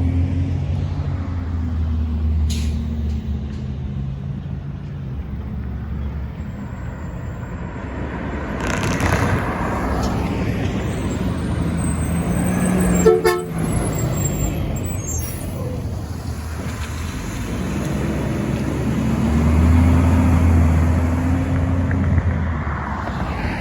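Diesel garbage trucks driving past, engines running, one fading away and another coming closer near the end, with a brief horn toot about halfway through.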